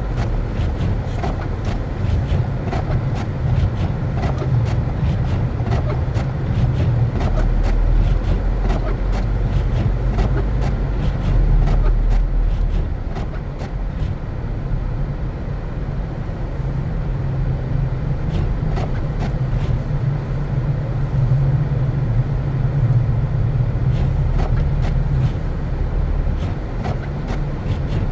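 A car driving on a snowy road: a steady deep rumble of engine and tyres, swelling for a few seconds just before the middle, with frequent small crackles and clicks on top.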